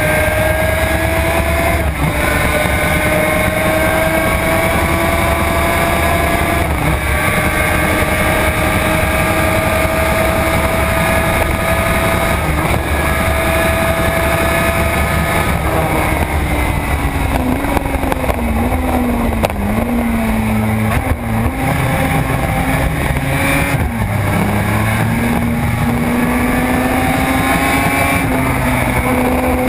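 Suzuki RG500 square-four two-stroke racing engine heard onboard under hard acceleration. Its pitch climbs steadily, broken by brief gear changes every few seconds. About halfway through the pitch drops and wavers as the bike brakes and changes down, then rises again near the end.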